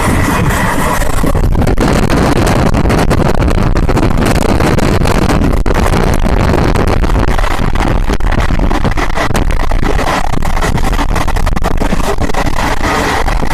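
Passenger train running at speed: a loud, steady rush of wheel and wind noise, with many small clicks and rattles throughout.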